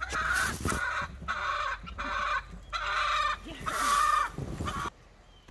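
Chickens squawking: a run of loud repeated calls that stops abruptly near the end.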